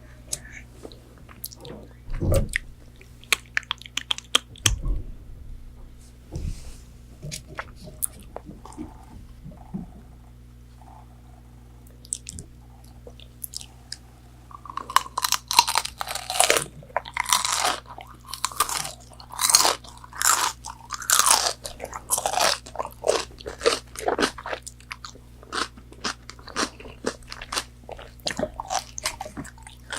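Chewing and biting into crunchy fried chicken nuggets. Small mouth clicks and quieter chewing come first, then from about halfway a long run of loud, crunchy bites and chews that thins out near the end.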